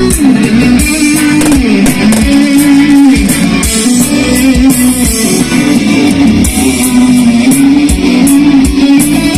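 A rock band's instrumental break: an electric guitar plays a lead melody with bending notes over strummed guitar, bass and drums.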